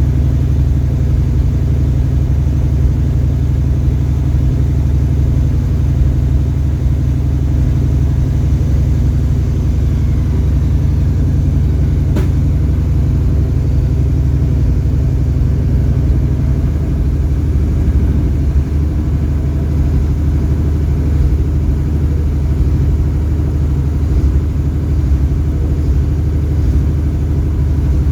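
Truck engine running steadily under a recovery pull, with a slight change in pitch about seventeen seconds in. A single sharp click sounds about twelve seconds in.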